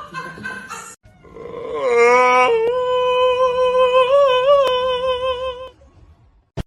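An animal howling: one long call that slides down into a steady held note for about three seconds, with a short waver near its end.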